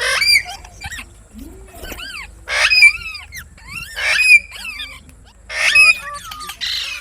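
Indian ringneck parakeets screeching: about four loud, harsh calls, roughly one every second and a half, with softer chattering calls between.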